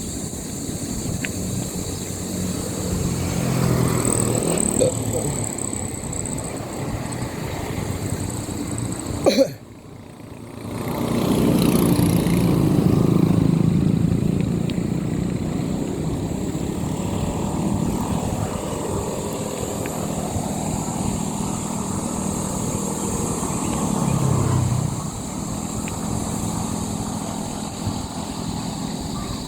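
Motorcycle engine running on the move, with steady road and wind noise. About nine seconds in there is a sharp knock, and the noise dips briefly before coming back up.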